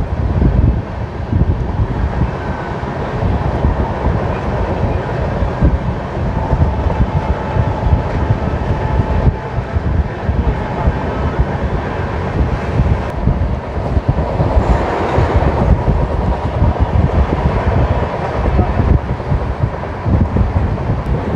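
Passenger train running at speed, heard from on board: a steady heavy rumble of wheels on track, with wind on the microphone. A brighter rushing sound swells for a second or two about two-thirds of the way through.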